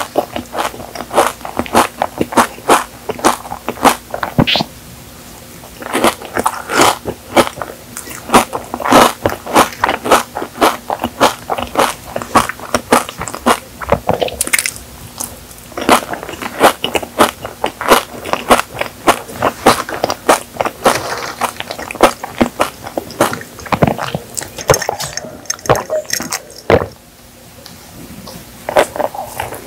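Close-up eating sounds: crunchy chewing and biting of a pistachio-kadayif chocolate cake, its crisp shredded pastry crackling between the teeth in quick runs of strokes, with a couple of short pauses.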